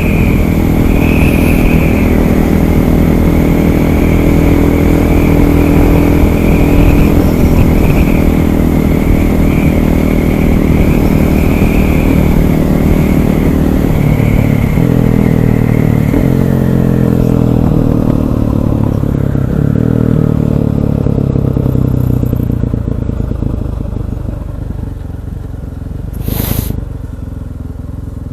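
KTM 500 EXC four-stroke single-cylinder engine running as the supermoto is ridden; past the midpoint the engine note drops in steps as the bike slows, then the sound grows quieter, with one sharp click near the end.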